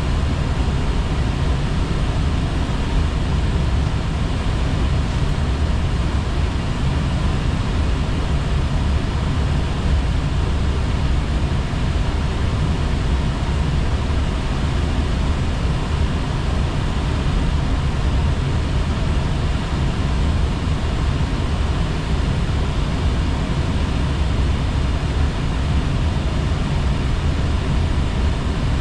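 Airbus A320 flight-deck noise in flight: a steady rush of airflow and engine hum, heaviest in the low end, unchanging throughout.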